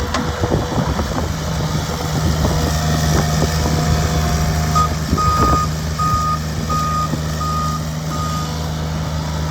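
Bobcat S70 skid steer's diesel engine running steadily. About halfway through its reversing alarm sounds about six evenly spaced beeps as it backs up, with a few knocks along the way.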